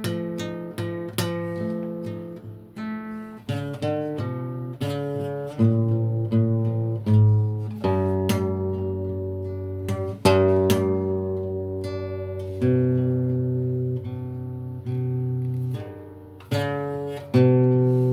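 Acoustic guitar playing a slow introduction alone, without singing: chords plucked and strummed one after another, each left to ring and fade, with firmer strums now and then.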